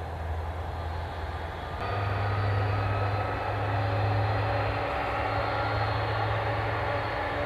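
Jet engines of a Boeing 747 running steadily as it taxis, a low hum with a high whine over it. It gets louder about two seconds in.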